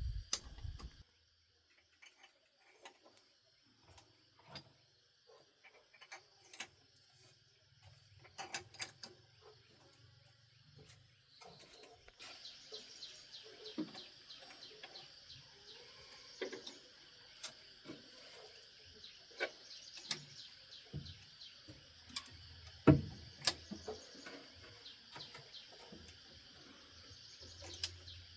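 Scattered clicks and knocks of hand tools and parts being handled during car repair work, one louder knock near the end. Underneath, a steady high insect chirring with bird calls, which grows louder about halfway through.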